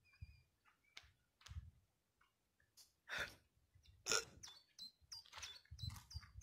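Small birds chirping in short, scattered notes, mixed with sharp clicks. The loudest bursts come about three and four seconds in, with some low wind rumble near the end.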